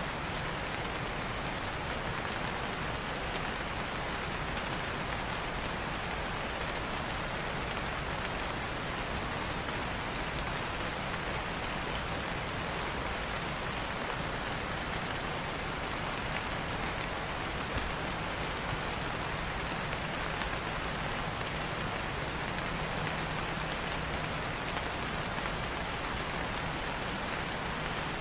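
Steady rain falling on foliage, an even hiss with no let-up. About five seconds in there is a brief, faint, high chirp of three quick notes.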